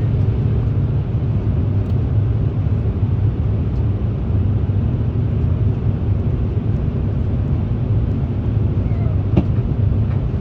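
Steady low rumble of airliner cabin noise aboard a JAL Airbus A350 in flight, with a faint click about nine seconds in.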